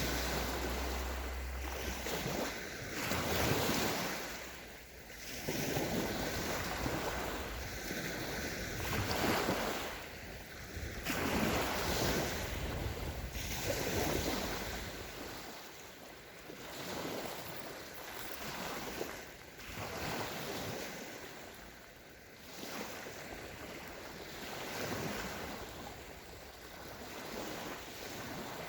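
Small sea waves breaking and washing onto a sandy shore. Each wave swells and fades away every couple of seconds.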